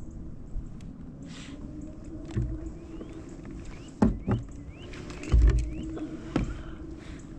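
Steady hum of a kayak's electric trolling motor, with a few sharp knocks on the hull about four seconds in and again near the end, and a heavy gust of wind on the microphone in between.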